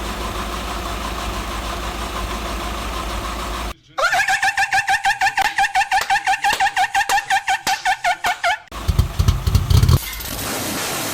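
Nissan Skyline R33's turbo straight-six being started after six months standing: a steady running sound, then the starter cranking in an even rhythm of about six beats a second for some five seconds, before the engine catches with a loud burst and runs.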